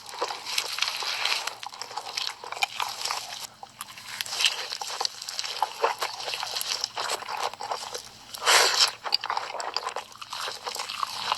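Close-miked crunching and chewing of hot Cheetos: dense, crisp crunches one after another, with a louder flurry of crunching about eight and a half seconds in.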